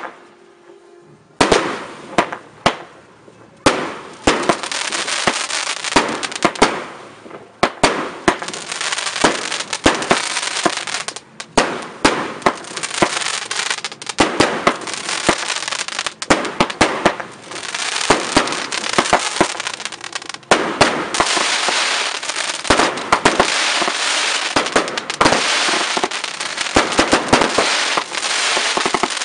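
Fireworks display: a single sharp bang at the start, then from about a second and a half in a dense, near-continuous barrage of bangs and crackling from shells and cakes going off in quick succession.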